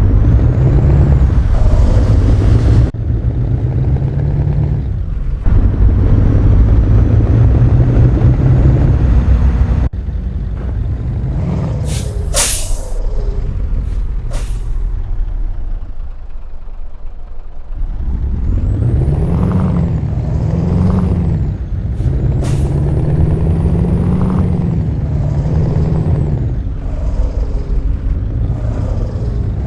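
Scania R-series truck's V8 diesel engine running loudly and being revved, its pitch rising and falling several times in the second half. Short sharp hisses of compressed air from the air brakes break in a few times.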